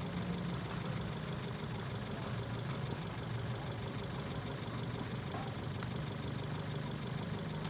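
Ford Fiesta's engine idling steadily, a low even hum.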